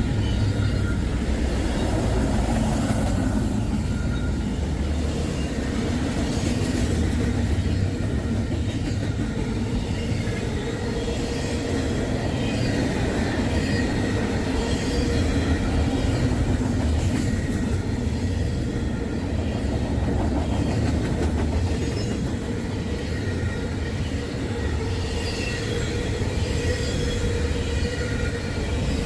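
Freight train of trailer cars rolling past close by: a steady rumble of steel wheels on rail, with a faint thin wheel squeal running under it.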